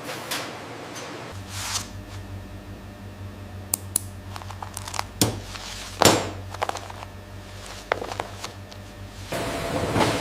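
Scattered sharp clicks and taps of hands and tools handling material, the loudest about six seconds in, over a steady low hum that starts after about a second and stops shortly before the end.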